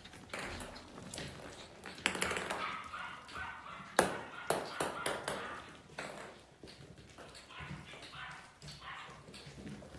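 Young Biewer terrier puppies yapping and yipping in short high calls while they play, among sharp clicks and taps, the loudest about four seconds in.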